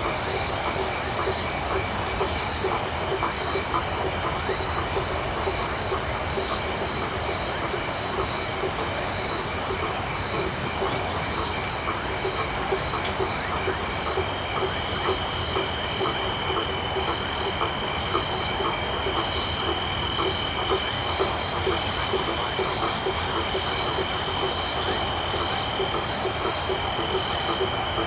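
Night chorus of crickets and frogs: several steady high insect trills over a dense mass of short, repeated frog calls. A single sharp click sounds about ten seconds in, and another steady insect trill joins about halfway through.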